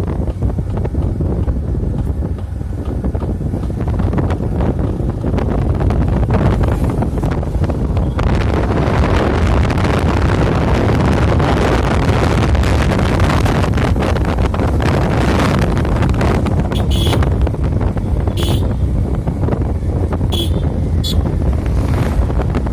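Heavy wind rumbling on the microphone while riding a moving motorbike: a loud, steady low roar that thickens midway, with a few brief high-pitched sounds near the end.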